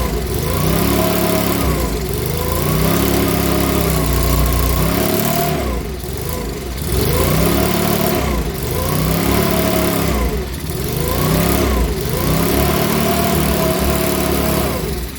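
Makita BHX2500 leaf blower's small four-stroke engine running, its speed rising and falling over and over about every two seconds, then cutting off at the very end. The owner reckons it needs a new carburettor.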